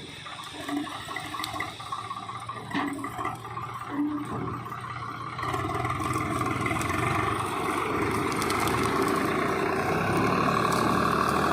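Heavy diesel engine running, quieter and uneven at first, then louder and steady from about five and a half seconds in as it comes under load or is revved.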